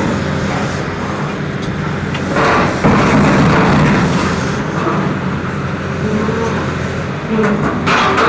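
Engine of heavy equipment running steadily, with louder noisy stretches about two and a half seconds in and again near the end.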